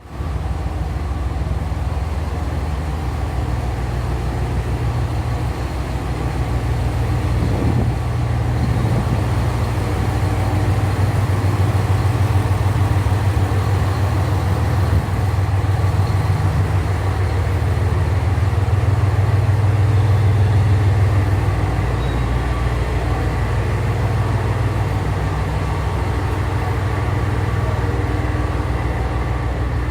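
DD51 diesel-hydraulic locomotive's twin V12 diesel engines idling: a steady, deep running sound that swells a little louder for a few seconds, twice.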